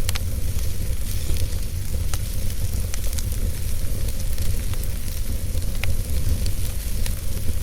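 Wood fire burning in a fireplace: irregular sharp crackles and pops, about one every second, over a steady low rumble and hiss from the flames.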